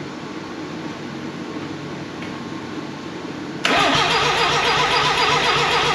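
Mazda rotary engine turning over on its starter motor, beginning suddenly about three and a half seconds in with a loud, even, pulsing cranking rhythm. Before that there is only a steady low hum.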